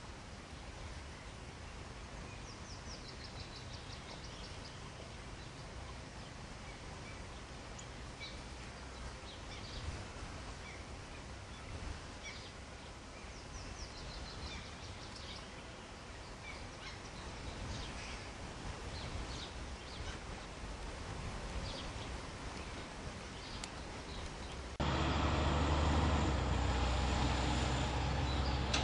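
Outdoor ambience with scattered small-bird chirps and a quick descending trill about three seconds in. About 25 seconds in, the background switches abruptly to a louder, steady low rumble.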